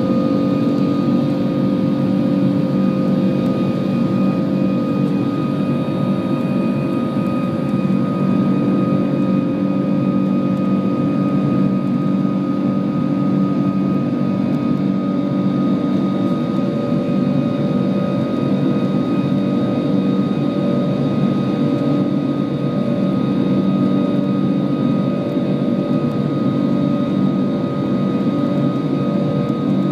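Rolls-Royce Trent 500 jet engines of an Airbus A340-600 running steadily, heard from inside the cabin: a constant loud rumble with a steady hum of fixed tones over it.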